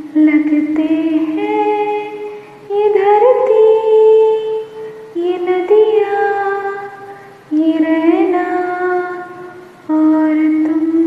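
Female voice singing a wordless melody in long held notes, about five phrases, each starting with a short slide up into the note and then held steady.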